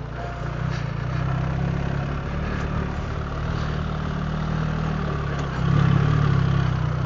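BMW R 1300 GS Adventure's boxer-twin engine running at low revs, with a brief rise in revs about six seconds in.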